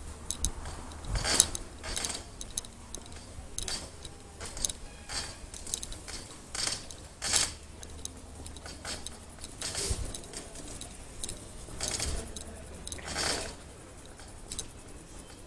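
Bicycle rattling and clinking irregularly as it rolls over bumps, metal parts jangling, over a low steady rumble.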